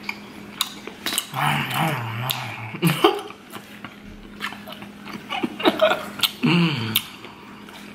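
A man chewing boiled octopus tentacle, with wet mouth clicks and smacks, and two short low wordless voiced hums: one about a second in, one near the end. A faint steady electrical hum sits underneath.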